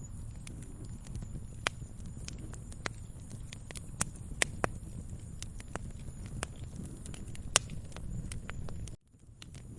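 Wood fire crackling: irregular sharp pops and snaps over a low steady rumble. The sound cuts out for a moment near the end, then comes back.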